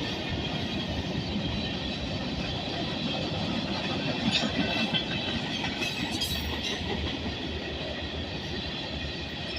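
Norfolk Southern freight train rolling past at speed: a steady rumble of wheels on rail with clickety-clack over the joints and a few brief metallic clanks, easing slightly near the end.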